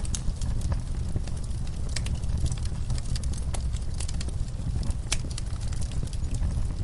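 Crackling wood fire in a fireplace: irregular sharp pops and snaps over a steady low rumble.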